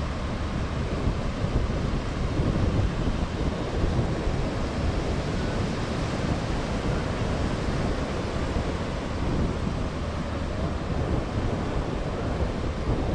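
Steady rushing wind noise on the microphone, mixed with ocean surf.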